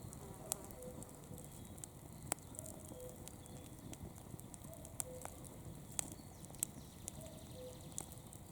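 Campfire burning, the wood crackling with sharp irregular pops over a low steady hiss. A faint short two-note chirp repeats every second or two under it.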